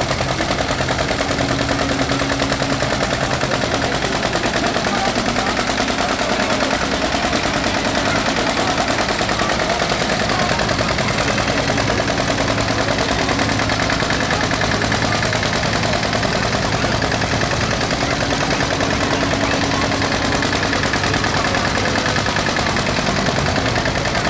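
Tractor diesel engine running hard, with a dense rapid rattling beat and its pitch shifting a little as the revs change.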